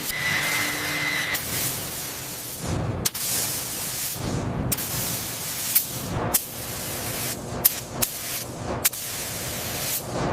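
Paint spray gun hissing, in a string of short bursts that start and stop abruptly. A thin steady whistle-like tone sounds over the first second or so.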